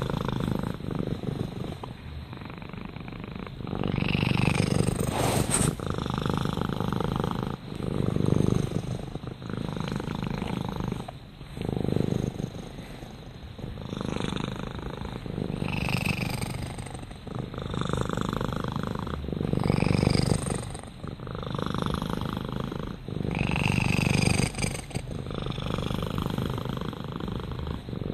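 Domestic cat purring continuously, swelling and fading in regular waves about every two seconds.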